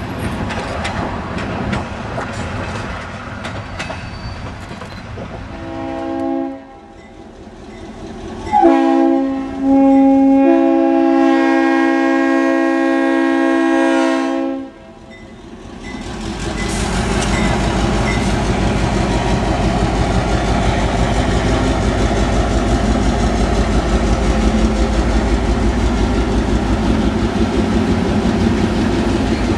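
Passenger train rolling by with clattering wheels. Then the locomotive's horn sounds a short blast and a long chord-like blast of about six seconds for a grade crossing. After that the yellow diesel locomotive and passenger cars rumble loudly past the crossing.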